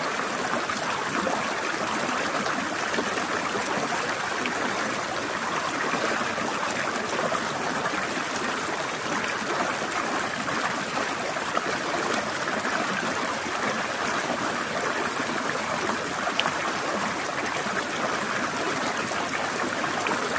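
Mountain stream trickling and splashing over rocks, a steady rush of flowing water.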